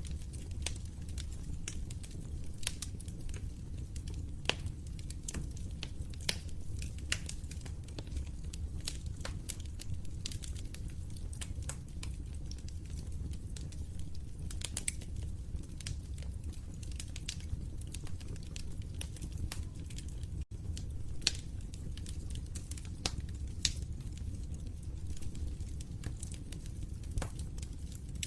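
Wood fire crackling: irregular sharp pops and snaps over a steady low rumble of burning, with a split-second dropout about two-thirds of the way through.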